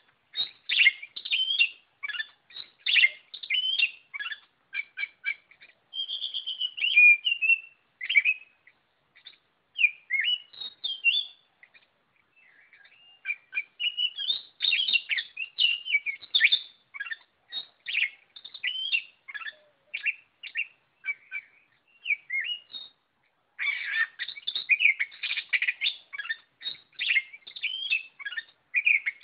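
Oriental magpie-robin singing continuously in a rapid, varied stream of chirps and whistled phrases, with short breaks about twelve and twenty-three seconds in.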